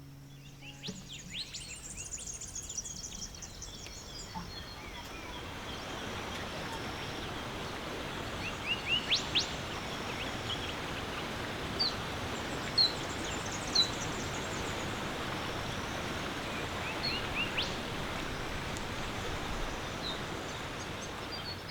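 Outdoor nature ambience: small birds chirping in short, sharp calls over a steady rushing noise that builds up over the first several seconds and then holds. A quick flurry of chirps comes near the start, and single loud chirps follow now and then.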